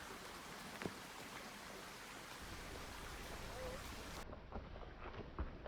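Faint, steady rush of a flowing creek, with a few light footstep crunches near the end.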